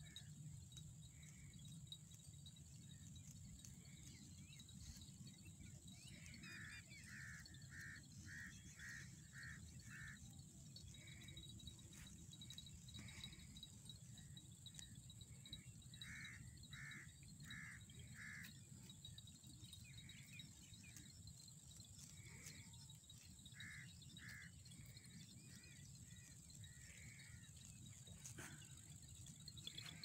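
Faint field ambience: a bird calling in short runs of repeated notes, about two a second, several times, over a steady high insect buzz and a low rumble.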